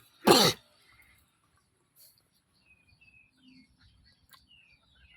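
A single short loud cry, falling in pitch, just after the start, followed by faint bird chirps, each a quick downward sweep, repeated throughout.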